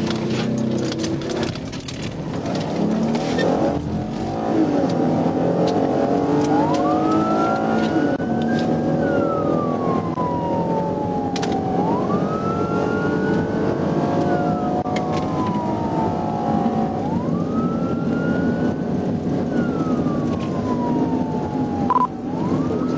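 Police patrol car's siren wailing, each slow rise and fall taking about five seconds, starting about six seconds in, over steady engine and road noise from the car speeding up in pursuit.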